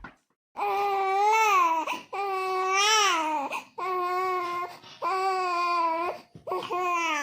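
Two-month-old baby crying: a run of about five loud, high wails, each a second or so long, with short breaths between them.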